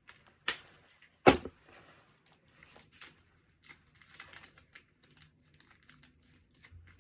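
Sticky tape snapping as it is pulled and torn from the roll, two sharp snaps near the start, followed by light crinkling and ticking of plastic gift wrapping being handled.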